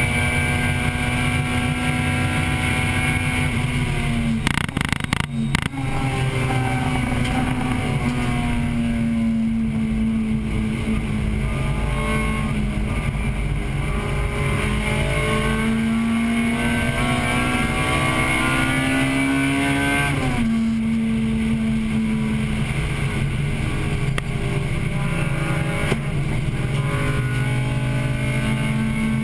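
1998 Acura Integra Type-R's 1.8-litre VTEC four-cylinder engine heard from inside the car at racing speed. It holds high revs, breaks off with a few clicks around five seconds in, then climbs steadily for a long pull. The revs drop sharply about twenty seconds in, and the engine then runs steady to the end.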